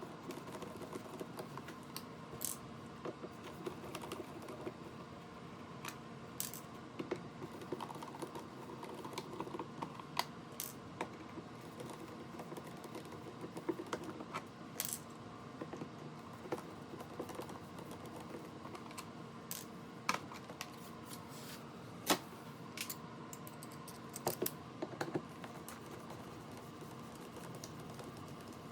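Irregular small clicks and taps of hands and tools working at an electrical light switch box: cover plate, screws and wires being handled. A faint steady hum sits underneath.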